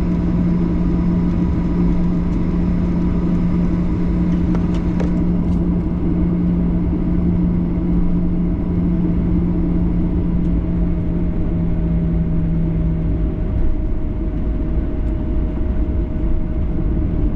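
Boeing 737-800 cabin noise while taxiing with the engines at idle: a steady rumble with a low hum that stops about 13 seconds in.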